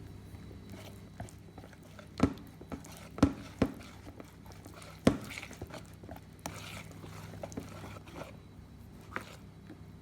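Kitchen utensils knocking and clinking against bowls or cookware several times, the loudest knocks about two, three and five seconds in, over a low steady hum.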